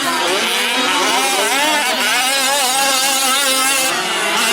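Several 1/5-scale gas RC trucks' two-stroke engines revving as they race, with overlapping engine notes rising and falling in pitch.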